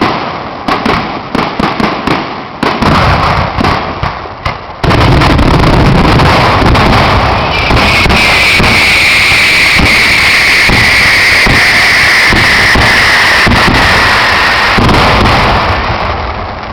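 Fireworks going off: rapid, separate bangs and crackles for the first five seconds, then a loud, dense continuous barrage with a high shrill sound over it from about 8 to 15 seconds, fading near the end.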